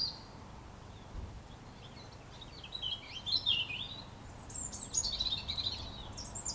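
Robin singing: rapid, high, warbling phrases of quick sliding notes. The song is nearly absent for about the first two seconds, then comes back in two long phrases.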